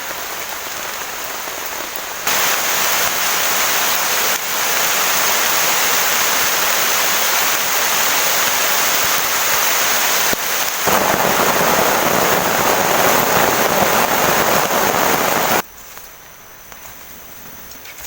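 Heavy rain pouring down in a dense, steady hiss, with abrupt jumps in loudness a few times as if cut between shots. About three-quarters of the way through it drops sharply to a much quieter patter with a few scattered drips.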